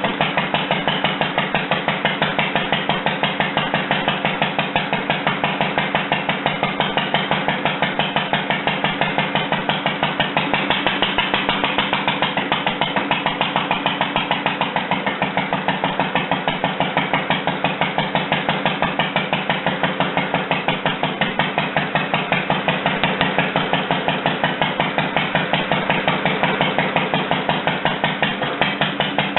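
Rebuilt International Harvester LA single-cylinder engine running at a steady speed, with an even, regular exhaust beat.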